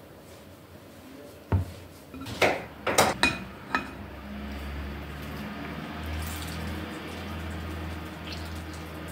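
Dishes and cutlery clinking several times in quick succession, then a steady low hum.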